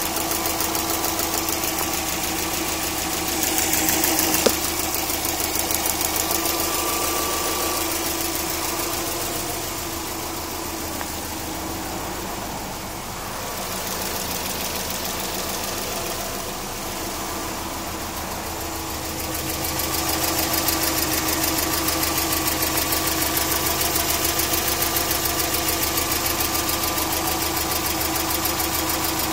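Subaru EJ20K flat-four engine idling steadily with a rapid, even ticking. The owner cannot place the tick and wonders whether it is piston slap, a bad timing belt tensioner, the AC or the lifters.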